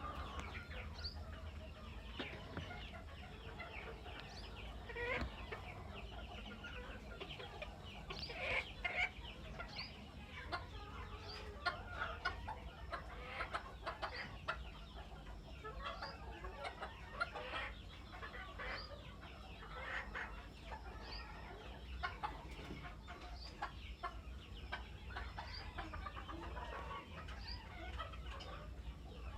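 A flock of chickens clucking and calling, many short overlapping calls with no let-up, over a steady low rumble.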